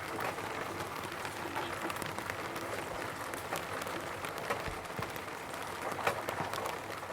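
Rain falling on a roof: a steady patter with many separate drops ticking sharply against it.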